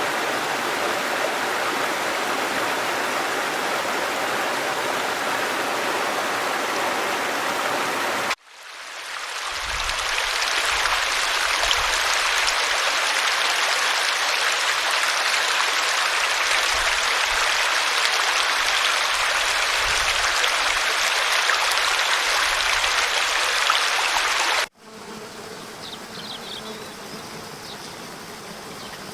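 Running stream water in three recordings joined by abrupt cuts: first a steady rush, then a louder, brighter rush with low rumbles, then a quieter flow with a few brief faint high chirps.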